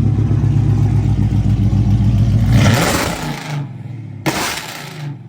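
A car engine holds a loud, steady rev, then drops off suddenly about two and a half seconds in. Two short bursts of rushing hiss follow.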